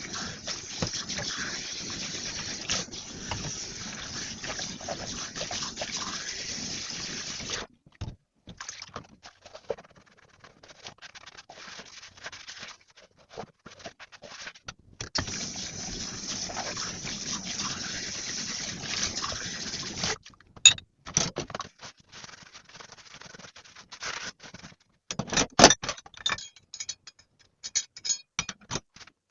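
Water running from a kitchen tap in two long spells, with short knocks and clinks of handled items between and after, the loudest near the end.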